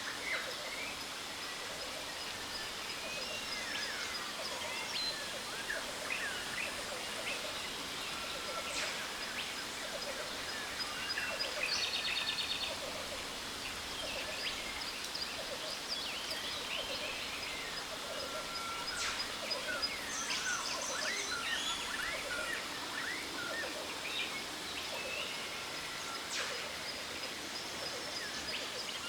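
Jungle ambience: many birds chirping, trilling and calling over the steady rush of a waterfall, with a low call repeating steadily underneath.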